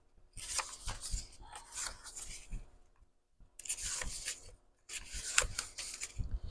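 Sheets of printed paper rustling and sliding against each other as they are handled and folded, in about four bursts.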